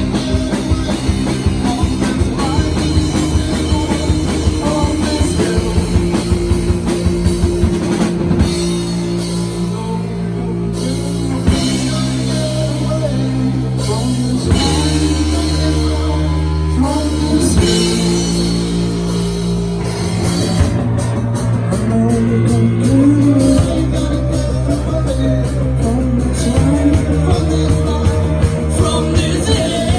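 Rock music: a drum kit keeping a steady beat under sustained, slowly changing chords.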